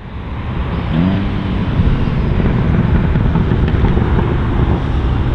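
Seat Leon Cupra ST's turbocharged 2.0-litre four-cylinder accelerating hard. The engine note swells in and rises in pitch about a second in, then stays loud and rough as the car pulls away.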